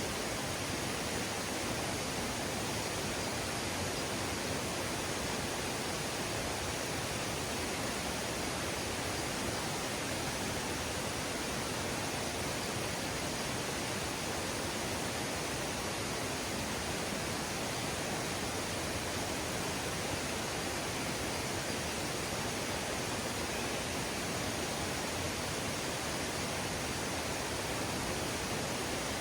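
Mountain valley stream rushing steadily over rocks, an even, continuous water noise.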